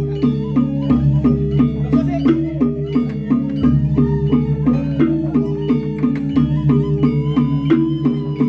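Balinese gamelan music: bronze metallophones play a fast, steady run of struck notes over a low sustained tone that is renewed about every three seconds.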